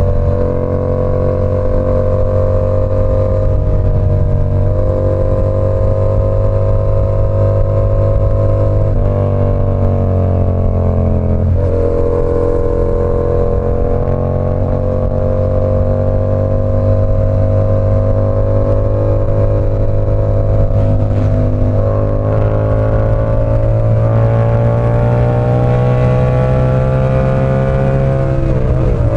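Yamaha R7's 689 cc parallel-twin engine on an SC Project CR-T exhaust, running under way as the bike is ridden. The engine note steps in pitch several times as gears change, holds fairly steady through the middle, and climbs gradually over the last several seconds before another shift near the end.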